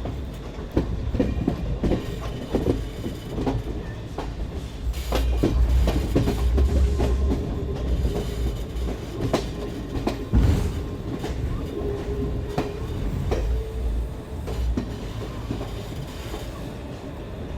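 Express passenger train coaches rolling into the platform: a low rumble, with the wheels knocking and clacking irregularly over rail joints. A steady squeal runs through the middle.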